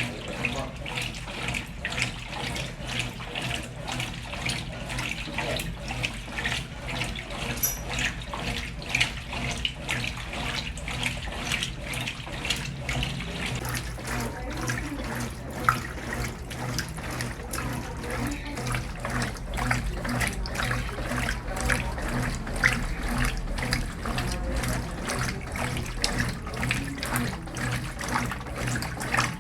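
Brastemp Ative! 11 kg top-loading washing machine washing a load: water splashing and churning in the tub over a steady low motor hum.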